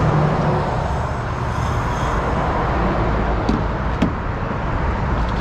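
Steady motorway traffic and idling heavy-vehicle engine noise, an even rumble, with a couple of light clicks around the middle.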